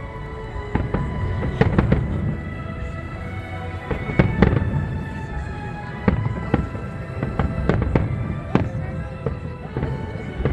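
Fireworks bursting in a steady string of sharp bangs over a low rumble, with music playing underneath.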